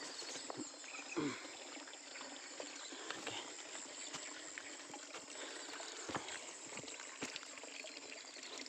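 Steady trickling water with a high, even insect drone, and a few light clicks.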